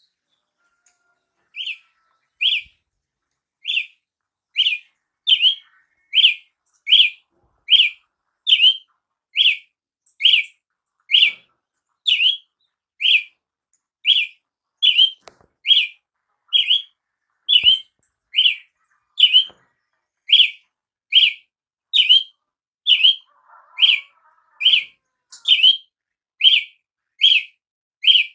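Brazilian tanager (tiê-sangue) calling: a long, even series of short, sharp, high chip notes, a little more than one a second, starting about two seconds in.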